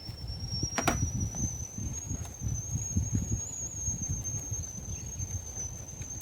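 Campfire with a thin, steady high whistle that slowly rises in pitch, over a low crackling rumble, with a sharp crack about a second in.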